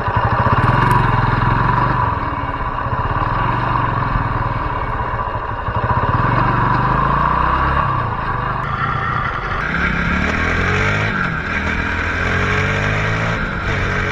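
Motorcycle engine on the move through a turn, its revs falling and then climbing again in several rising pulls in the second half.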